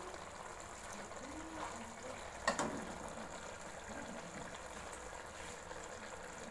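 Chicken karahi curry bubbling and sizzling in the pan as cream goes in, with one sharp clink about two and a half seconds in.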